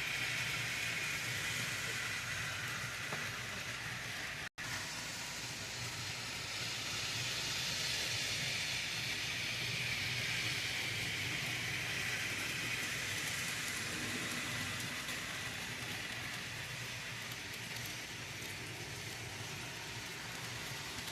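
Model train running on its track: a steady whirring rattle of motor and wheels with a low hum, cutting out for an instant about four and a half seconds in.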